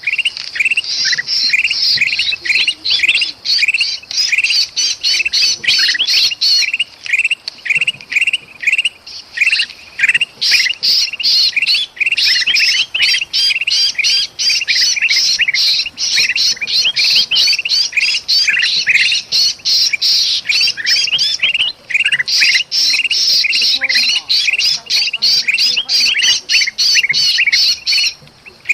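Bulbuls, kutilang emas and kutilang, giving agitated alarm chatter mixed with the distress calls of a trapped bulbul: the kind of racket used as a lure to draw other birds in. The short harsh notes come thick and fast, several a second, with only a few brief pauses.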